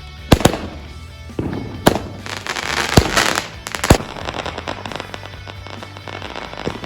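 Consumer fireworks going off: about five sharp bangs over the first four seconds, with a burst of dense crackling in the middle, then fainter pops.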